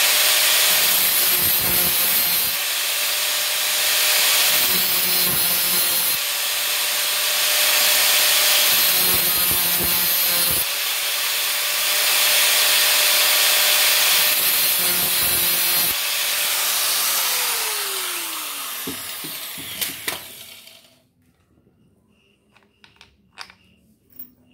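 A high-speed power cutting tool cutting a screw deeper, in passes about every two seconds over a steady motor whine. The motor winds down and stops near the end, followed by a few faint clicks.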